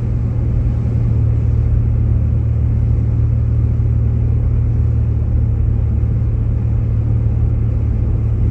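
Jeep Grand Cherokee driving on a snow-covered road, heard from inside the cabin: a steady low rumble of engine and tyre noise.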